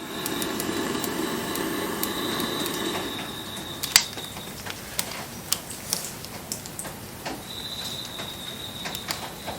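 Wood bonfire crackling, with sharp irregular pops and snaps. A steady hiss with a hum dies away about three seconds in, and a thin high steady whine comes and goes.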